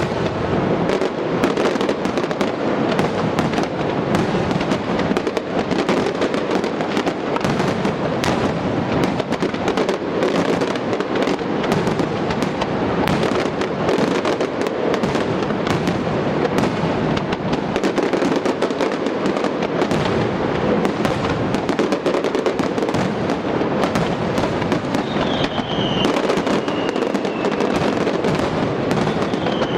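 Fireworks display: a dense, unbroken barrage of crackling and bangs. A falling whistle sounds twice near the end.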